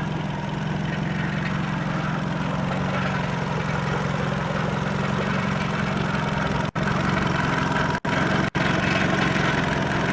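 2004 Nissan Sentra's four-cylinder engine idling in drive, with a steady metallic buzzing rattle from a loose exhaust heat shield vibrating against the pipe under load. The sound cuts out for an instant three times near the end.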